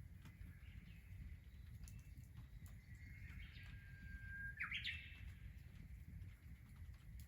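A bird singing one phrase, about three to five seconds in: a held whistle that ends in a quick flourish of higher notes.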